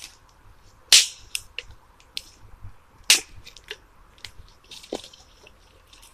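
Dry sticks snapping by hand for firewood: two loud, sharp cracks, about a second in and about three seconds in, with a few smaller snaps and clicks between.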